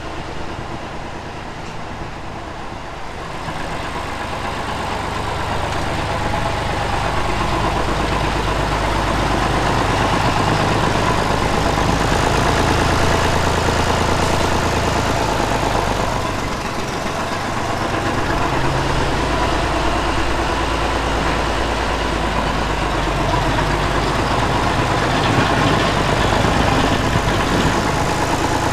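Tractor engine running steadily, its level building a few seconds in, dipping briefly around the middle, then picking up again.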